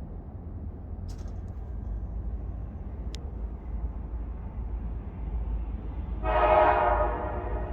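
Approaching freight train with a low rumble, then the EMD SD40-2 locomotive's air horn sounds a multi-tone chord about six seconds in, loud for about a second and then held more quietly.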